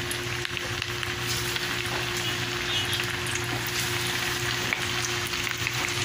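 Flour-battered pork pieces deep-frying in hot oil in an aluminium wok: a steady sizzle full of small crackles and pops.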